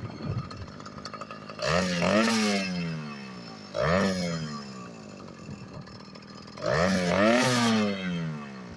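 Small two-stroke motorized-bicycle engine revving up and dropping back three times, each rev lasting a second or two.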